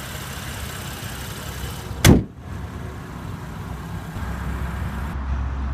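BMW 435i's twin-turbo 3.0-litre inline-six idling with a steady low hum. About two seconds in, one loud thump as a body panel of the car is shut; the low hum grows louder about four seconds in.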